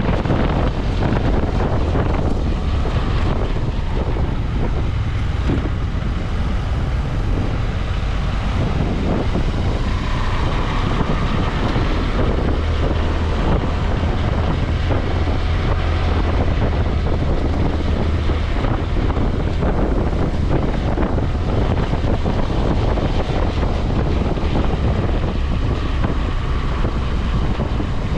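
BMW F650GS motorcycle under way, its engine running steadily beneath wind noise buffeting the microphone.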